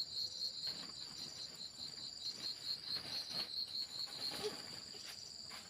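Crickets chirping in a steady, evenly pulsing high trill.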